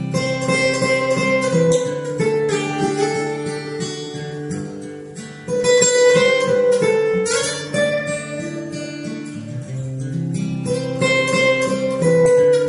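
Live acoustic guitar music: strummed chords under held melody notes.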